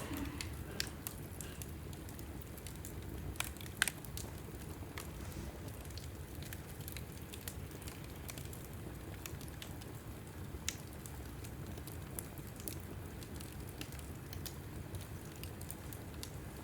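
Log fire burning in a fireplace: a steady low rumble of the flames with scattered sharp crackles and pops, the loudest pair about four seconds in.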